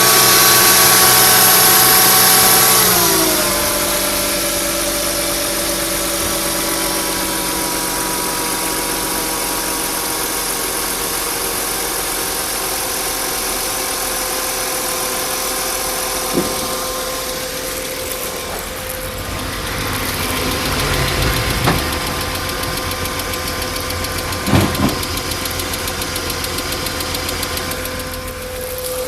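Mercedes-Benz W210 E320 engine idling just after a cold start, with a knock that the owner says appears only when the engine is started cold below about +10 °C and fades within a minute. The idle speed drops about three seconds in and then holds steady, with a few sharp clicks later on.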